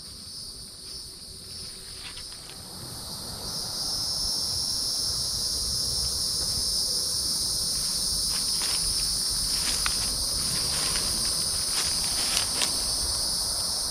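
Insects droning steadily in two high-pitched bands, growing louder about three and a half seconds in, with a scatter of light crunching footsteps on leaf litter in the second half.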